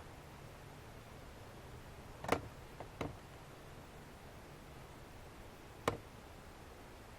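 Faint steady background hiss broken by three sharp clicks or taps: two close together a couple of seconds in and one more near the end.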